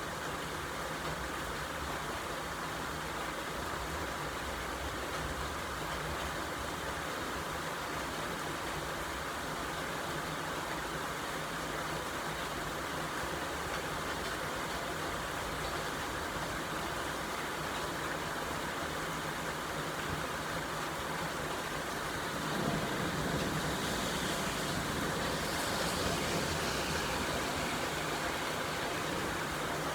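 Steady rain hiss. About two-thirds of the way through, a louder swell of low rumble and hiss rises and lasts several seconds.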